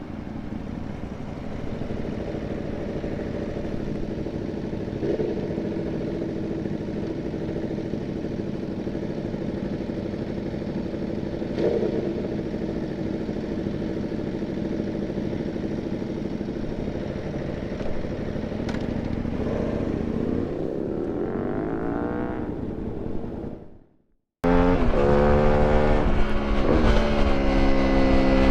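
2008 Aprilia Tuono 1000R's V-twin engine with Akrapovic exhaust, running at a fairly steady pitch that climbs for a couple of seconds. The sound cuts out for about a second, then comes back louder with the revs rising and falling.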